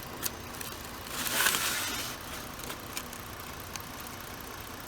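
Ford Explorer engine idling steadily, with a short hiss about a second in and a few light clicks.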